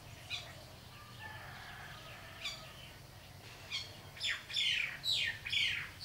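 A bird calling with short, sharp notes that slide down in pitch: one or two spaced out at first, then a quicker, louder run of them over the last two seconds.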